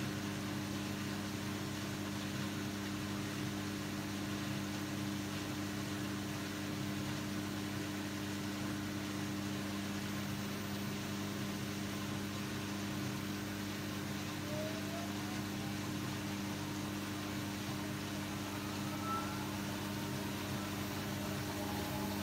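Steady mechanical hum with a low drone over a hiss, unchanging throughout, and a few faint rising tones in the second half.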